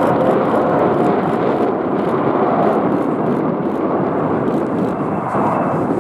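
Twin-engine regional jet's turbofan engines at takeoff power, a loud, steady rushing noise with no sharp changes.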